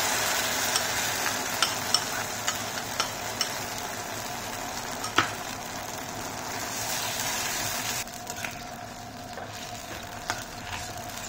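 Onion sauce with a cornflour slurry sizzling in a wok as it thickens, while a steel spatula stirs it and clicks and scrapes against the pan. The sizzle eases off about eight seconds in.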